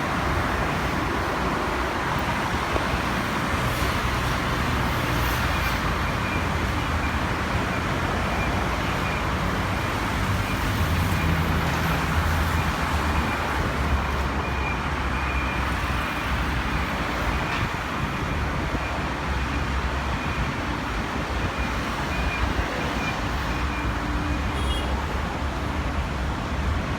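Steady engine rumble with traffic-like background noise, without any rise or fall in level.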